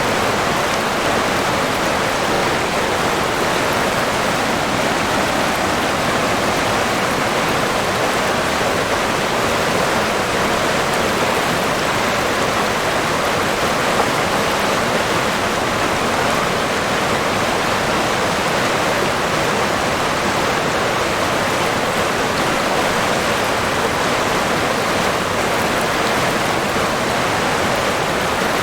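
River water flowing and splashing over rocks: a steady, even rush without pauses.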